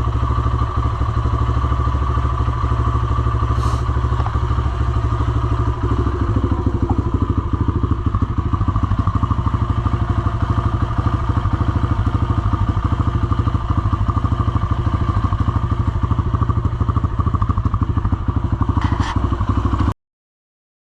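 Kawasaki KLX140RF dirt bike's four-stroke single-cylinder engine idling steadily with an even, rapid firing pulse. It is running smoothly after a fuel-screw adjustment: "purring like a kitten, running like a dream." The sound cuts off suddenly near the end.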